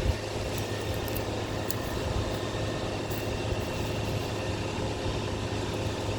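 Steady low mechanical drone, an even hum with several steady tones, with a few faint ticks over it.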